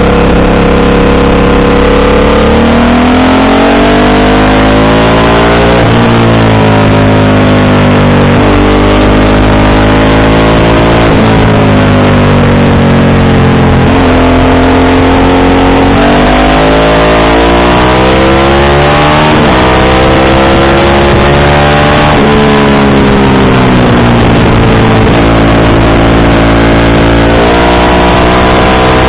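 Motorcycle engine heard on board while riding. The revs climb in several runs, each cut off by a sudden drop in pitch as it shifts or eases off, with slower falls in between as it slows. A steady rushing noise runs underneath.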